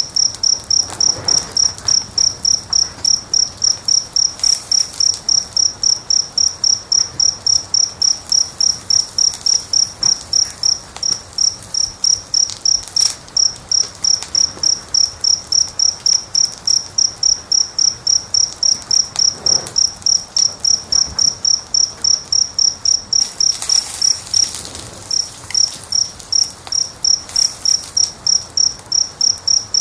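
A cricket chirping steadily, about three high, even chirps a second, broken by a brief pause about 25 seconds in. Faint wood-fire crackles sound underneath.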